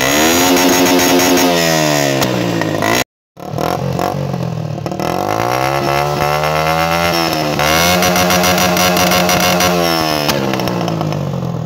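Asya AS 100's 100 cc single-cylinder four-stroke engine, breathing through a hollow homemade exhaust, revved up and down several times, with crackling pops from the exhaust. Around eight seconds in it is held high against the rev limiter for a couple of seconds before dropping back. The sound cuts out briefly about three seconds in.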